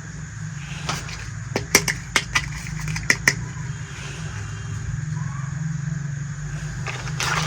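Light clicks and taps of small plastic toy-kitchen pieces being handled, in a quick cluster about a second in, over a steady low hum. A rustle of packaging starts near the end.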